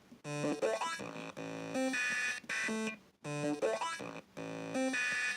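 Teenage Engineering Pocket Operator synth playing a looping sequence of short, buzzy stepped notes, the phrase repeating about every three seconds.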